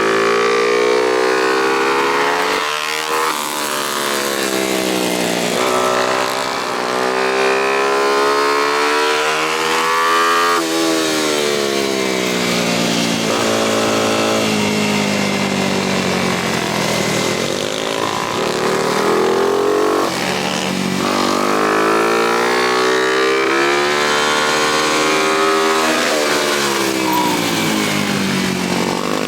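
Motorcycle engine on a lap of a kart track, rising in pitch as it accelerates, then dropping off sharply as the throttle closes for corners, about seven times over.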